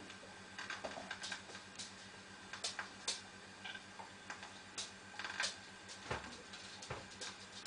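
Irregular clicks and scratches of a nesting bird moving about on the floor of a nest box, played through a television's speaker over a steady faint electrical hum.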